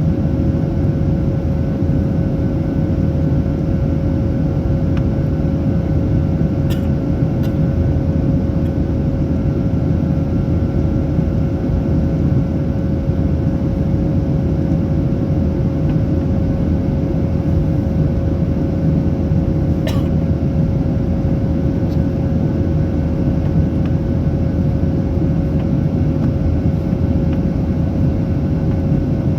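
Steady cabin noise inside a Boeing 737-800: its CFM56-7B jet engines and the airflow make a constant low noise with a steady hum. A couple of faint clicks come through, about a quarter of the way in and again past the middle.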